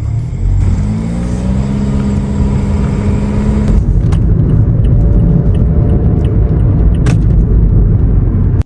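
A vehicle engine accelerating as it pulls away, its pitch rising, then dropping about four seconds in as it shifts gear and climbs again.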